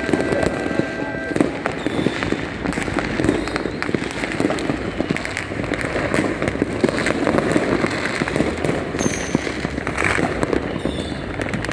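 Many fireworks and firecrackers going off at once in a dense, unbroken crackle of pops and sharp bangs, with the odd faint whistle.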